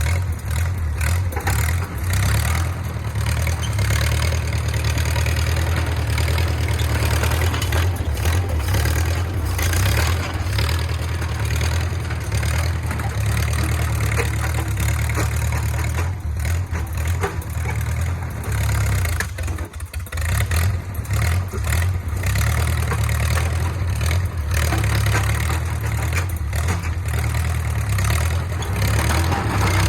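Engine of a small 1950s bulldozer running steadily, with a brief drop in level about twenty seconds in.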